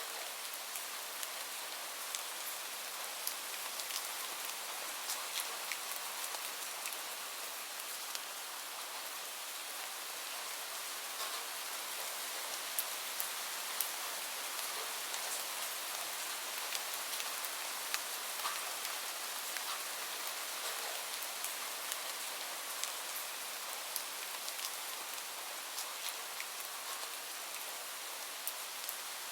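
Steady rain falling on a surface, an even hiss with many fine taps of individual drops.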